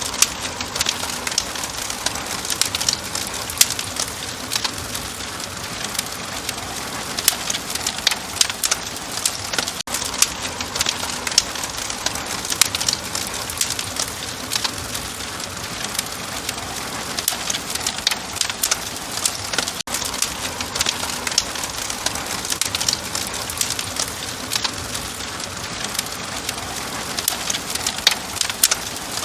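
Wood fire crackling steadily: a dense run of small pops and snaps.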